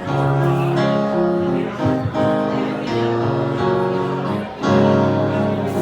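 Live band playing the instrumental intro of a slow soul song, with sustained chords on guitar and keys that change every second or two.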